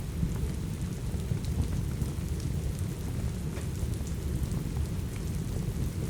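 Steady rain with a deep low rumble, over which a wood fire gives scattered small crackles and pops.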